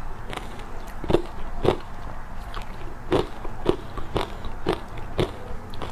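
Hard ice dusted with matcha powder being bitten and chewed close to the microphone, crunching in a steady rhythm of about two bites a second, with a short lull of fainter crunches near the middle.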